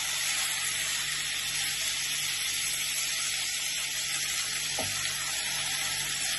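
Shredded vegetables sizzling steadily in a hot pan as a spatula stirs them.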